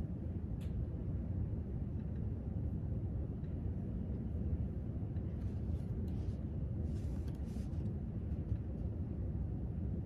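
Steady low rumble of library room ambience, with a few faint brief rustles, the loudest between about five and eight seconds in.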